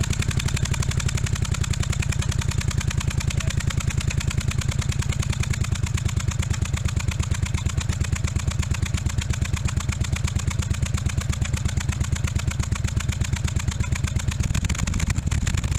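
1982 Yamaha Virago 750 V-twin engine turning over on its electric starter, a steady, even, rapid pulsing that runs without a break; the starter, freshly straightened after its twisted case shorted on the positive post, now cranks the engine smoothly.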